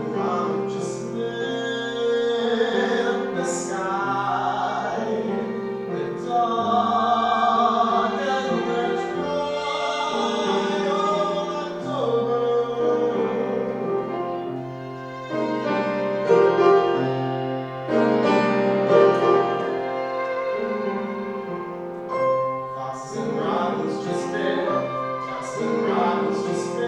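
Singing from a theatrical song: held, wavering vocal notes over an instrumental accompaniment with sustained low bass notes.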